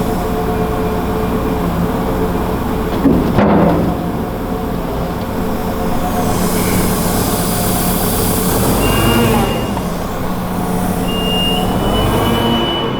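Engine running steadily with a constant hum, loud enough to drown out any hiss from the sealed tractor tyre. A short knock about three seconds in, and a stretch of air hiss around six to eight seconds in.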